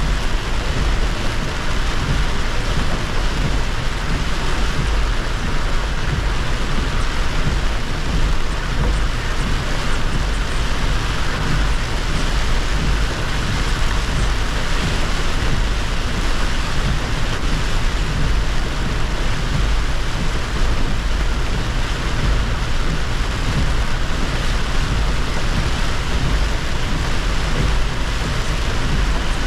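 Heavy rain and wet-road tyre noise from a car driving in a downpour: a steady hiss with a low rumble underneath.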